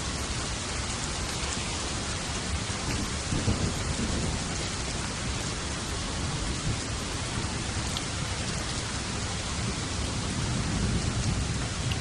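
Steady heavy rain with thunder: low rumbles swell up about three seconds in and again near the end.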